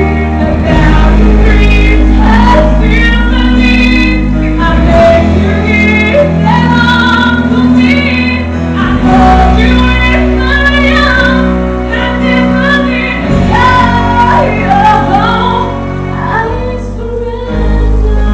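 A female vocalist singing a song solo, holding and sliding between notes over instrumental accompaniment with a steady bass line.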